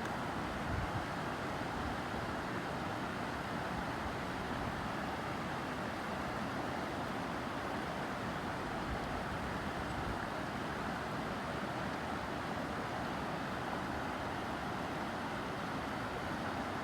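Steady rushing of a mountain stream, an even noise that does not change.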